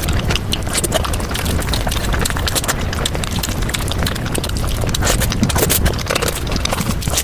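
Close-miked chewing of food, a dense run of irregular crisp clicks and crackles over a low rumble.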